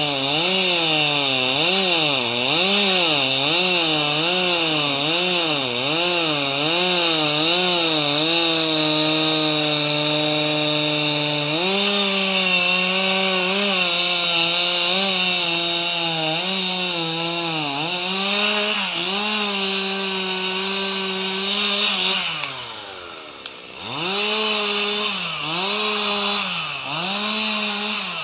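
Two-stroke chainsaw running at high revs while cutting wood, its pitch wavering up and down about once a second and then holding steady. About 22 seconds in it drops briefly toward idle, then revs up again and keeps cutting.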